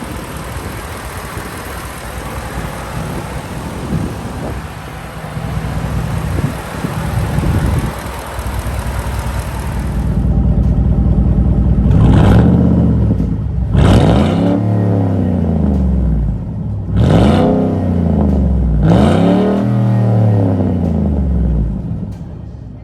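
Ford Raptor's 5.4-litre Triton V8 running, then revved four times in quick blips, each rising in pitch and falling back to idle, starting about halfway through.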